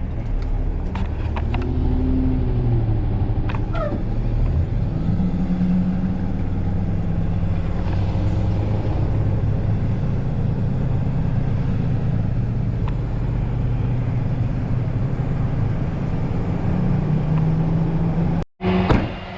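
Car engine running while the car is driven slowly, with a brief rise and fall in pitch about two seconds in; the car is running poorly enough that it is not expected to last long. The sound cuts out abruptly for a moment near the end.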